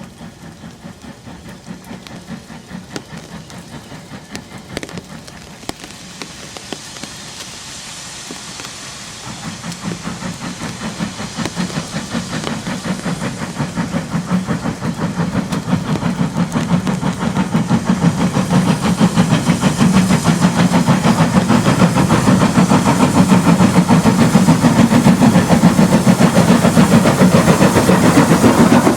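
Steam locomotive approaching under steam, its rhythmic exhaust beats and hiss growing steadily louder, loudest near the end.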